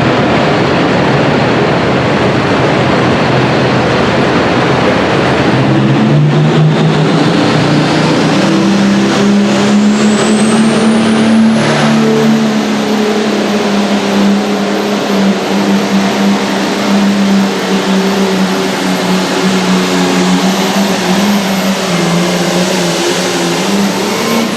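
Turbocharged diesel farm pulling tractor run hard under full load on a pull, the engine note held fairly steady. A high turbo whistle climbs about ten seconds in and then holds.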